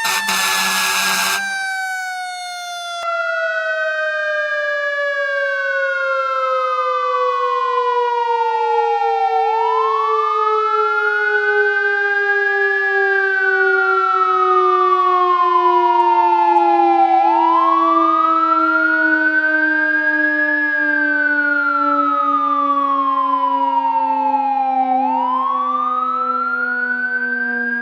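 Fire truck sirens. A short horn blast ends about a second and a half in. Under it, one siren tone winds slowly down in pitch the whole time. From about three seconds in, a second siren wails over it, rising quickly and falling slowly, and repeats about every eight seconds.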